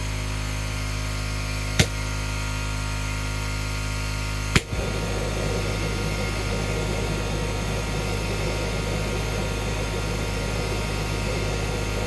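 Air compressor running steadily with a low hum, feeding the combustion rig. Two sharp clicks cut through it, about two seconds in and again near five seconds.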